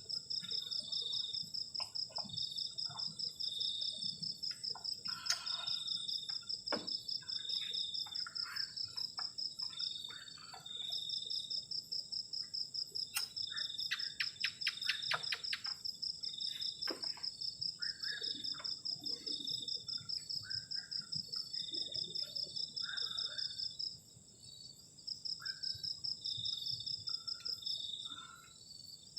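Crickets chirping at night in steady, evenly pulsed trills over a constant high insect whine. The trills pause briefly twice. Scattered short calls from other night animals and a quick run of clicks come midway.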